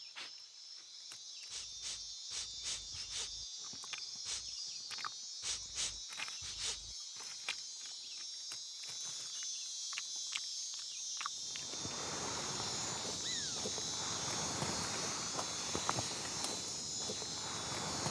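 A steady high-pitched rainforest insect chorus, with scattered sharp clicks and snaps over the first seven seconds. From about twelve seconds in, a rustling noise joins it and builds, like movement through leaf litter.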